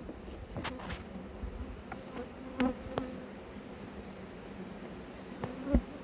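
Honeybees buzzing steadily around an opened hive, with a few sharp clicks and knocks and one louder thump near the end.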